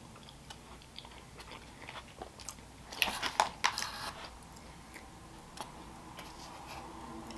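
Close-miked chewing with small mouth clicks, and a brief cluster of sharper clicks and scrapes about three seconds in as a plastic fork picks fries out of a foil tray.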